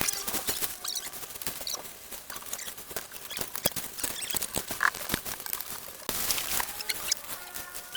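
Irregular clicks and knocks in quick uneven succession, with a few faint short tones among them.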